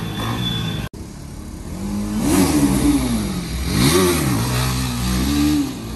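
Sport motorcycle engine revving. After a sudden cut about a second in, a TVS Apache RR 310's single-cylinder engine revs up and down several times as the bike rides past, with repeated rising and falling sweeps in pitch.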